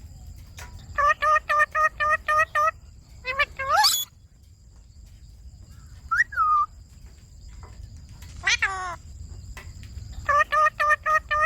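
Indian ringneck parakeets calling: a fast run of about eight short, harsh repeated calls, then rising squawks, a single call and a falling squawk, with another fast run of calls near the end.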